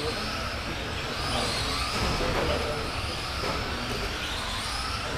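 Several radio-controlled race trucks lapping the track, their motors whining and rising and falling in pitch as they accelerate and brake, over a steady hiss of tyres on the surface.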